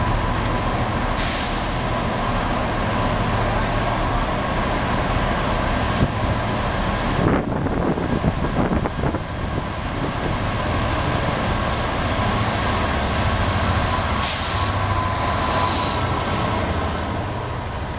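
Diesel-hauled passenger train pulling out slowly: coaches rolling past with a steady rumble and drone and a run of wheel knocks over the rail joints midway. Two short bursts of air hiss come about a second in and again near the end. The diesel engine of the EWS Class 67 locomotive propelling at the rear grows stronger as it passes near the end.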